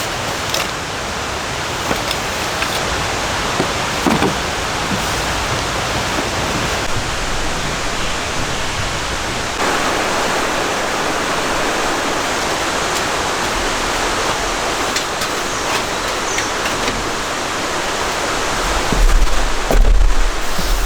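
Rain falling steadily, an even hiss throughout. Near the end come a few low thumps and knocks.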